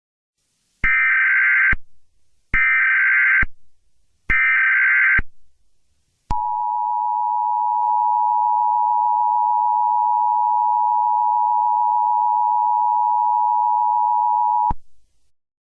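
Emergency Alert System header: three identical shrill warbling SAME data bursts, then the steady two-tone EAS attention signal, held for about eight seconds before it cuts off sharply.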